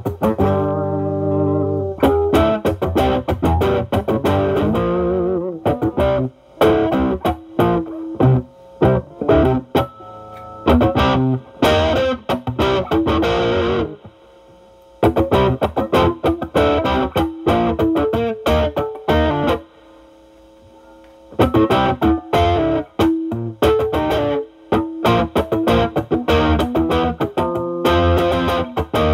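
Fender Stratocaster with single-coil pickups played through a Ceriatone Centura Klon-style overdrive into a Marshall Valvestate amp's drive channel. The pedal's gain is at 10 and the guitar's volume is rolled back to clean up the drive. Blues-style single-note lead lines open on a held note with wide vibrato, then run in picked phrases, with two brief pauses near the middle.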